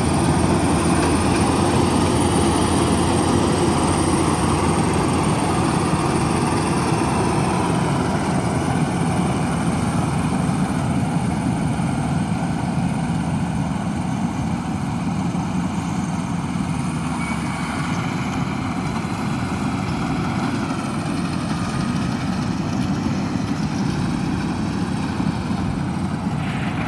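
Rice combine harvester running steadily at working speed, its engine and threshing machinery making a continuous dense drone that gets slightly quieter after about eight seconds.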